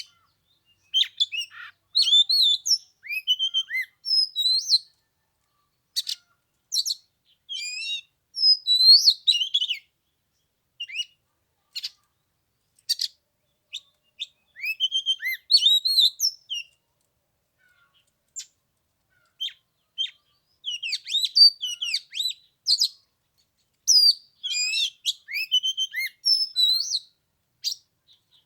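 Oriental magpie-robin singing: varied whistled phrases, slurred glides and chirps come in clusters with short pauses, and there is a lull of a few seconds past the middle.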